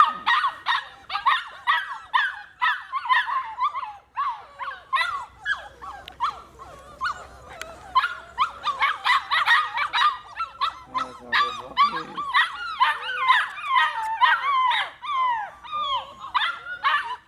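A Vizsla puppy whining and yipping over and over, several short high-pitched cries a second, with a brief lull about four seconds in.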